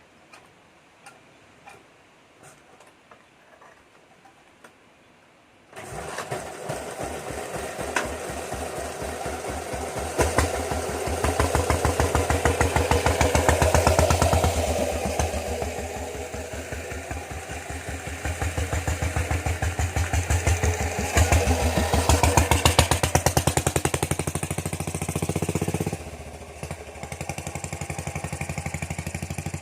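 Ruggerini 550cc diesel engine in a Suzuki TS125 motorcycle starting after a few faint clicks, then running with a rapid even pulse. It is revved up and down twice, then settles to a lower, steadier speed near the end.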